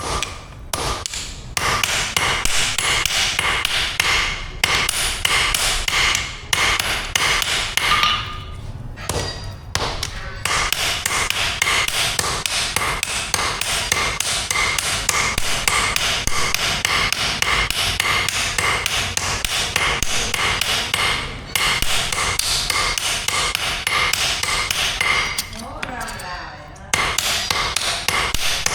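Blacksmith's hammer striking steel on an anvil, while forging an axe head: a fast, steady run of ringing blows that stops briefly a few times.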